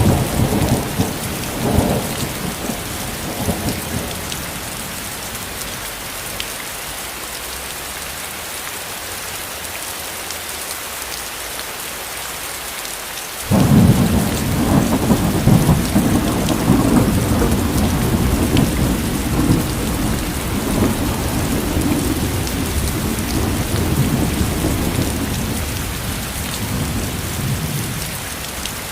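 Steady rain falling, with thunder: a rumble dies away over the first few seconds, then a sudden loud thunderclap about halfway through rolls on for over ten seconds before fading near the end.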